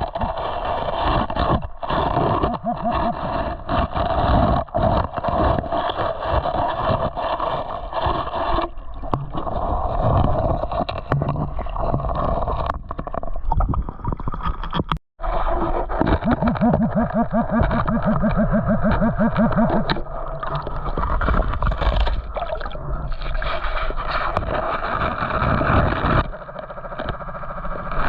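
Water sloshing and gurgling around someone working in a shallow creek, with scraping and knocking. The sound cuts out briefly about halfway through.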